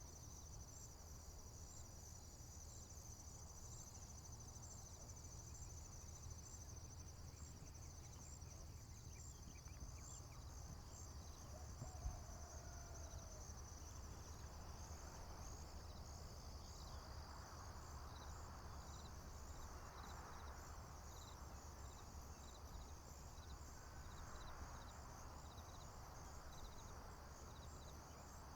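Crickets chirping steadily in a continuous high-pitched pulsing chorus over a low, even rumble. A single short knock comes about twelve seconds in.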